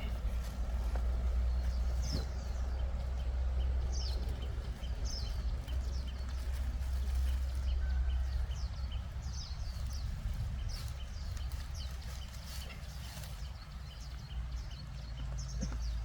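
Excavator's diesel engine running with a steady low rumble, easing slightly near the end, while short high chirps repeat over it throughout.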